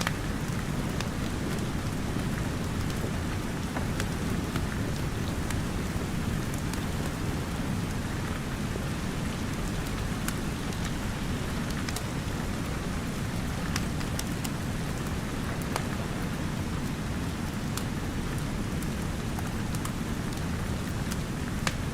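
Steady rain, with scattered sharp crackles and pops of a wood fire in the fireplace.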